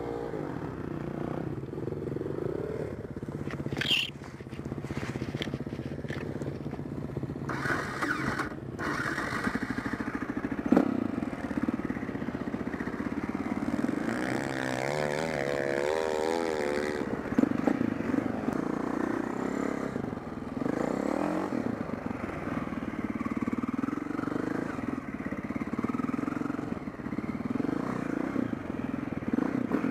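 Four-stroke enduro motorcycle engine running, revving up and down as the bike climbs, with a few sharp knocks from the bike over the terrain.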